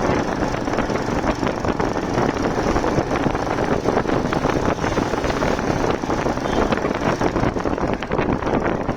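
Motorcycle on the move, its engine running under heavy wind buffeting on the microphone, steady throughout.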